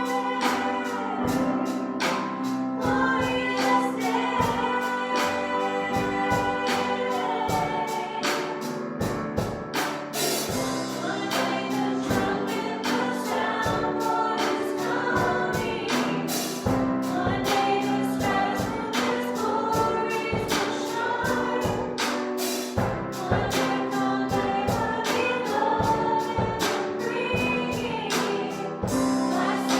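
Live worship music: a praise band and singers performing a gospel song with a steady drum beat.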